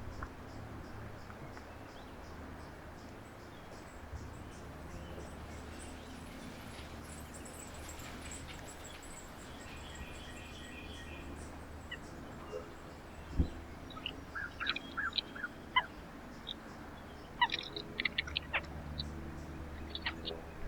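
Small songbirds chirping in short, quick notes, mostly in the second half, over a steady low rumble. A single sharp thump comes about two-thirds of the way through.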